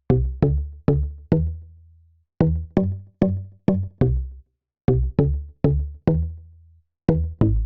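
Synth bass preset with a mallet-like tone playing a short melodic line of separate plucked notes, each striking sharply and dying away, in phrases with short pauses between them.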